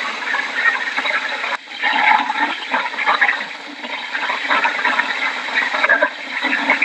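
Hurricane wind and heavy rain: a loud, continuous rushing noise that drops briefly about a second and a half in.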